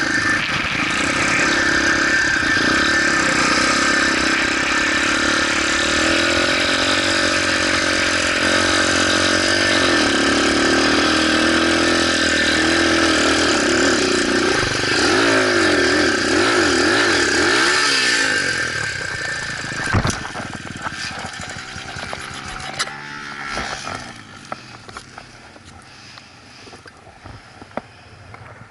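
Motorcycle engine running close by, its pitch rising and falling as it is revved, for about two-thirds of the time. It then drops away and a single sharp knock follows, leaving only faint, irregular sound.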